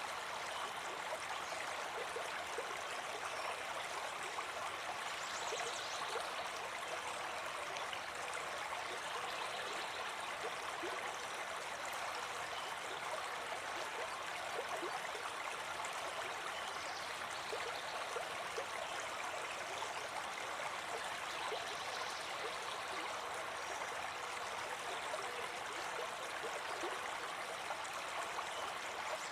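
River water running and burbling steadily over rocks.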